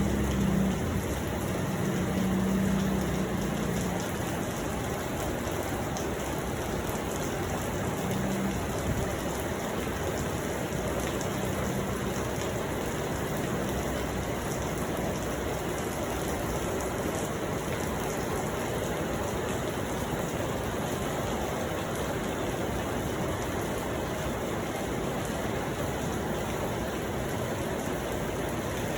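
Steady rain falling, an even hiss of drops. A low hum sounds under it for the first few seconds and briefly twice more around eight and eleven seconds in.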